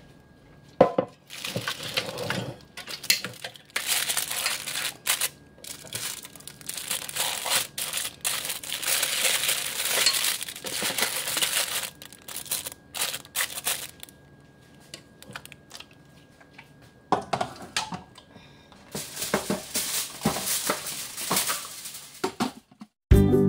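Aluminium foil crinkling and rustling in irregular bursts as foil-wrapped rolls are handled and pressed into a pressure cooker pot.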